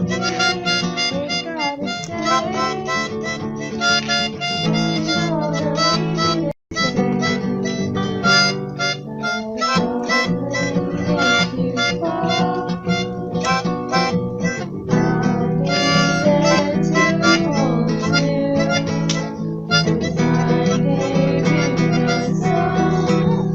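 Harmonica played over a strummed acoustic guitar, an instrumental passage. The music cuts out for an instant about six and a half seconds in, then carries on.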